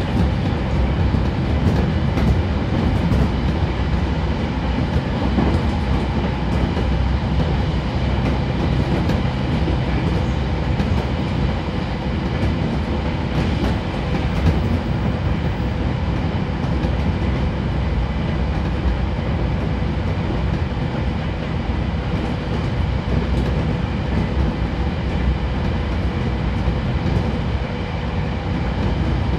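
Running noise inside a JR Kyushu 811 series renewed electric multiple unit motor car at speed: a steady rumble of wheels on rail with scattered faint clicks. A thin steady hum becomes clearer in the second half.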